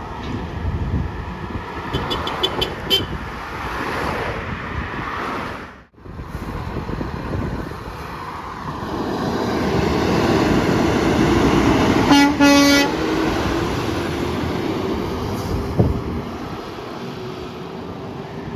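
A heavy truck passes close by and gives one short blast on its air horn about two-thirds of the way in, over the rising and fading noise of the truck going by. Earlier there is a quick run of about six short high beeps.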